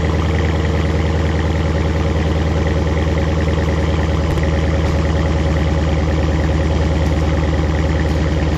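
A 2015 Dodge Challenger SRT 392's 6.4-litre HEMI V8 idling steadily on E80 ethanol fuel through a flex-fuel kit, with a slight change in the idle about four seconds in.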